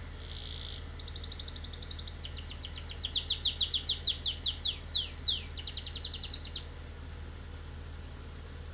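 A songbird sings a rapid trilled song of fast repeated and down-sweeping high notes for about five and a half seconds, over the steady low hum of a Toyota Avanza's engine idling.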